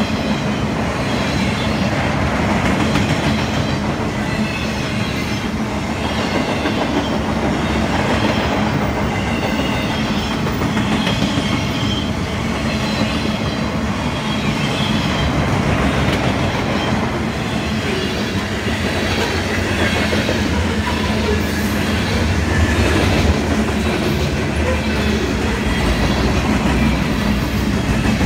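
Freight cars of a long CSX mixed freight rolling past close by: a steady, loud sound of steel wheels on rail, with faint high squealing tones from the wheels. The low rumble grows heavier in the last third as the loaded flatcars give way to boxcars.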